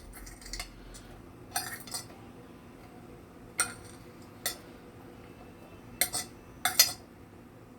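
Metal kitchen utensils clinking and scraping against cookware: several short, sharp clinks spread over the seconds, as ingredients are handled for the pot.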